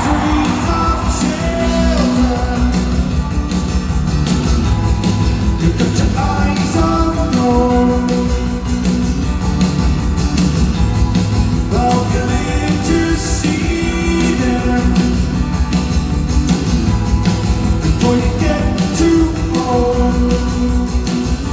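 Live rock band playing in an arena: electric guitars, bass and drums, with singing over them, echoing in the large hall.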